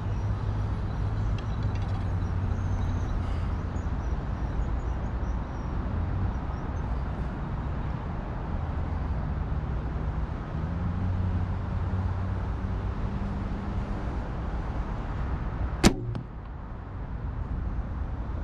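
A single sharp snap of a PSE compound bow being shot comes about sixteen seconds in. Before it there is a steady low rumble of background noise.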